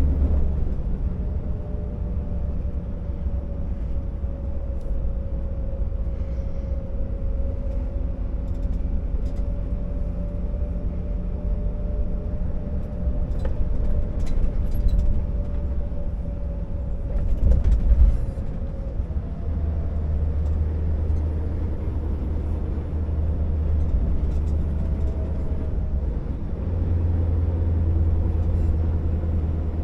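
Scania R650 timber truck's V8 diesel engine running steadily: a deep rumble with a faint whine that drifts slightly in pitch. It swells briefly about seventeen seconds in.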